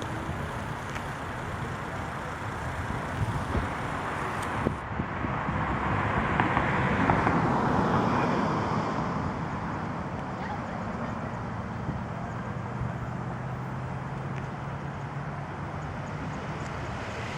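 Outdoor road traffic: a vehicle passes, its sound swelling and fading about halfway through, followed by a steady low engine hum.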